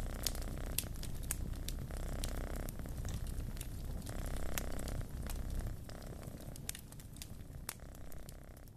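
Wood fire crackling in a fireplace, with scattered sharp pops, growing fainter over the last few seconds.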